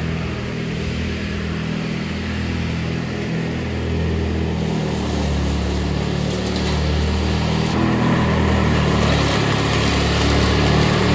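Ride-on lawn mower engine running steadily under load, its note wavering a little and growing slightly louder.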